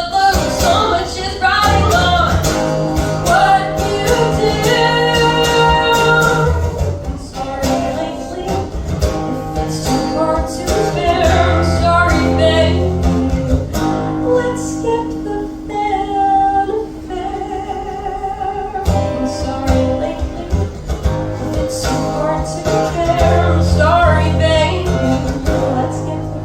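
Live band music driven by guitar, an instrumental passage without sung lyrics, with a steady bass line under it.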